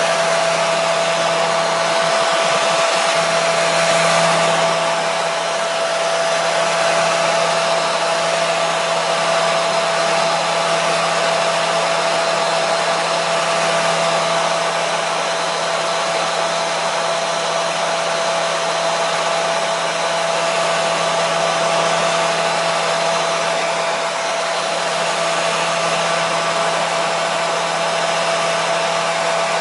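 Hair dryer running steadily: a continuous rush of air with a steady motor hum and whine.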